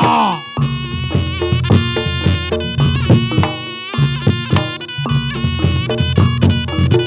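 Reog Ponorogo gamelan accompaniment: a reedy shawm (slompret) plays a sustained melody over drums and gongs struck in a steady rhythm. A falling pitch glide sounds right at the start.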